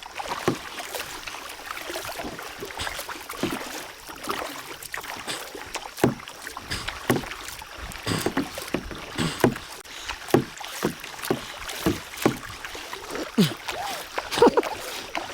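Kayak paddle strokes splashing into the water, quick and hard, about one to two strokes a second, with a steady hiss of moving water between them.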